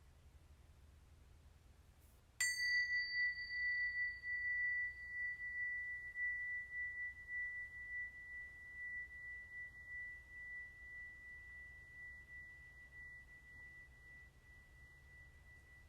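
A single struck metal chime rings once about two seconds in, with a brief bright shimmer over a clear high tone. The tone then fades slowly over more than ten seconds, wavering as it dies away.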